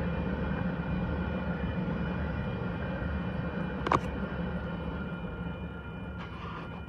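Freight train of grain hopper cars rolling past: a steady low rumble with faint high ringing tones from the wheels, slowly fading. A single sharp click about four seconds in.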